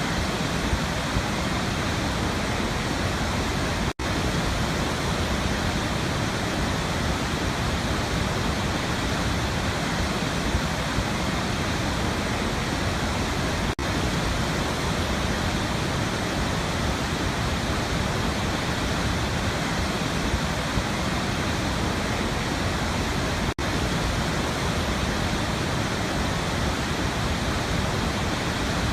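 Waterfall: a steady, dense rush of falling water, broken by three momentary dropouts about ten seconds apart.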